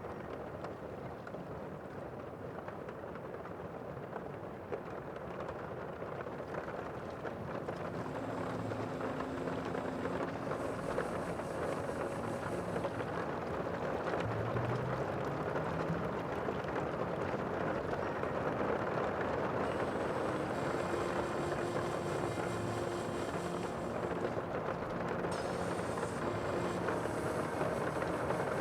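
Steady rushing sound of the sea with wind, growing a little louder partway through.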